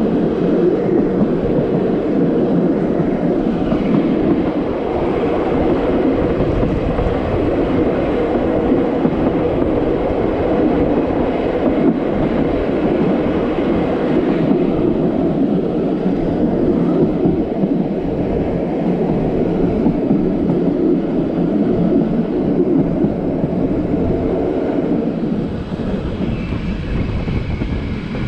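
Le Petit Train Jaune's metre-gauge electric train running along the track, heard from the open side of the carriage: a loud, steady rumble of wheels on rail. A faint high whine joins near the end as the train approaches its terminus.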